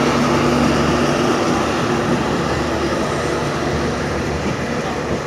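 Passenger train running at speed: a steady rushing rumble of wheels, wind and coach, with the low drone of the WDM3A ALCO diesel locomotives' engines fading out a second or two in.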